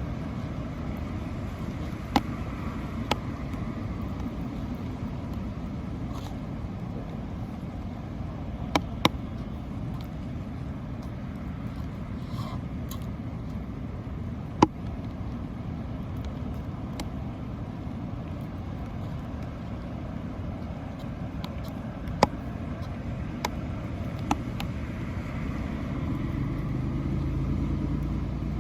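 Steady low outdoor rumble of road traffic, with a vehicle passing and growing louder near the end. About eight sharp single taps or clicks are scattered through it at uneven intervals.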